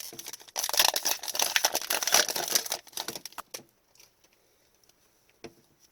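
Crinkling of a foil trading-card pack wrapper being handled and crumpled, for about two seconds, followed by a few light clicks.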